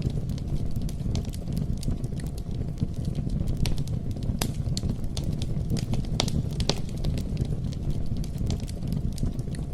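Wood campfire crackling: irregular pops and snaps over a steady low rumble of the burning fire.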